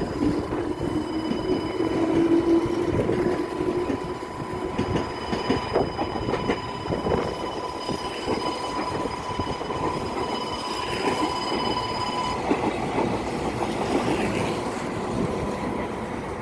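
Electric train running through the station, its wheels clattering over the rail joints, with a motor whine rising in pitch over the first few seconds. A steady high tone sounds alongside and cuts off about twelve seconds in.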